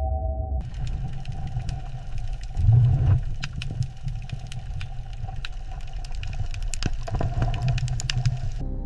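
A low, engine-like mechanical rumble with scattered clanks and clicks, and a heavier thud about three seconds in; it starts and stops abruptly.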